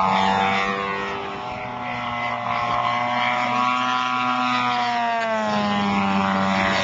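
Radio-controlled model aircraft's motor and propeller running with a steady whine, its pitch rising slightly midway and falling back about five seconds in.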